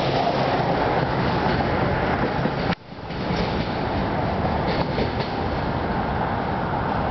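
Freight cars of a CSX steel slab train rolling past over a grade crossing, a steady rolling noise from wheels on rail. The sound briefly cuts out about three seconds in and comes back.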